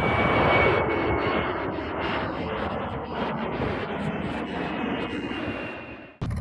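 Steady rushing noise of an airplane's engines that fades near the end, then cuts off abruptly.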